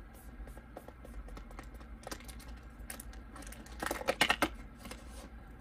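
Cardboard and paper packaging being handled and opened by hand: a run of small light clicks and rustles, with a burst of louder crackling clicks about four seconds in.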